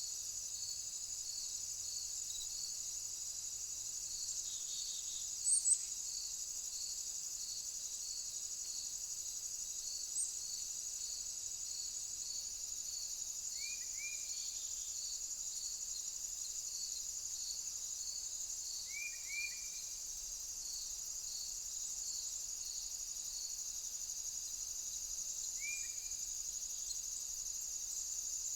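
Steady high-pitched insect chorus, with one cricket chirping in a regular pulse about every two-thirds of a second. Now and then a bird gives short, falling calls in twos and threes, and a sharp high double chip about five seconds in is the loudest sound.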